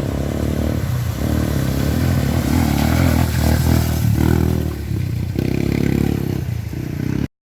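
Off-road trail motorcycle engine revving, its pitch rising and falling, then cutting off abruptly near the end.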